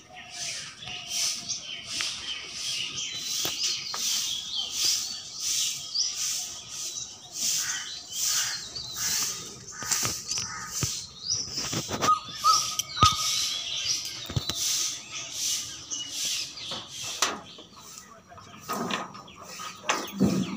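Birds chirping over and over, a little under two short chirps a second. Near the end come a few knocks and a clatter as the shop's overhead door panel is handled.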